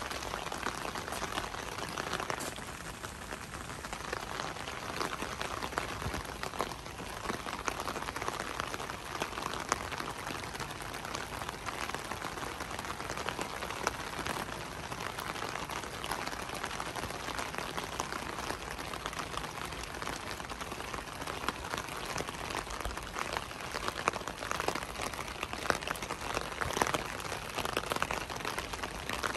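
Steady rain falling, with many sharp individual drop hits over the even hiss; the drop hits get louder and more frequent near the end.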